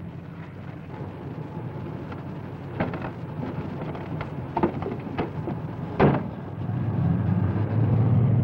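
Car engine running with a steady low hum, with several knocks and one sharp slam about six seconds in; the engine grows louder from about seven seconds in.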